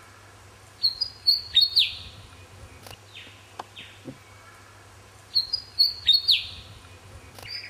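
Willie wagtail singing: two short chattering phrases of quick, sharp notes, about four seconds apart.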